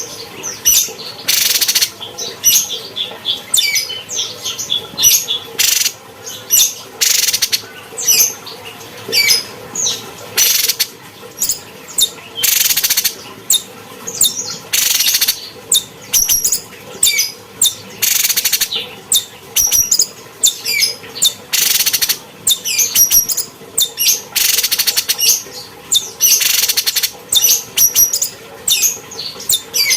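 Cucak cungkok singing nonstop: a fast run of high chirps and whistles, broken every second or two by short, loud, harsh bursts.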